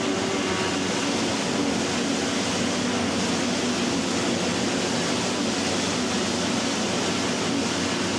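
Heavy silage-harvesting machinery running steadily: a constant rushing roar with a low engine hum under it.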